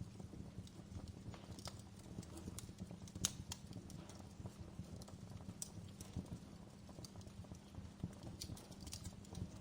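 Wood fire crackling in a fireplace: irregular sharp pops and snaps over a low steady rumble of the flames, with one louder pop about three seconds in.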